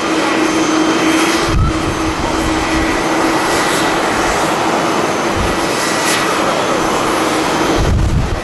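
Jet airliner engines running: a loud steady rush with a held hum and a thin high whine. The hum stops near the end. Wind buffets the microphone in low thumps a few times.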